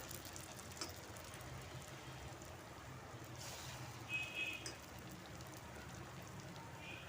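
Potato-batter fritters frying in hot oil in a kadhai: a steady sizzle with scattered small crackles. A brief high chirp or squeak is heard about four seconds in.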